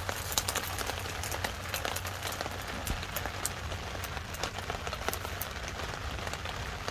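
Rain pattering on a surface, a steady hiss dotted with many irregular sharp drop ticks.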